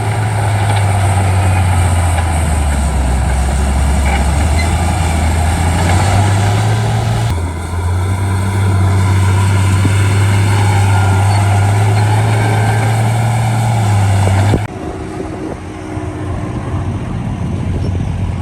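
Shantui bulldozer's diesel engine running under load as it pushes fill, with a deep steady drone that shifts in pitch. The sound changes abruptly about seven seconds in and again near fifteen seconds, where it becomes quieter.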